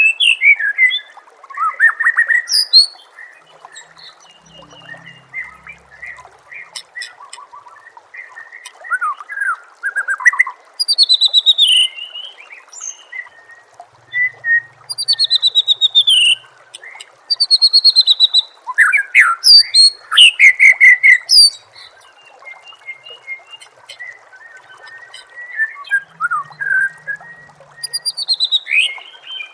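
White-rumped shama (murai batu) singing a string of varied phrases: loud whistles, fast trills and quick notes sweeping downward, with short pauses between them. A steady trickle of water runs underneath.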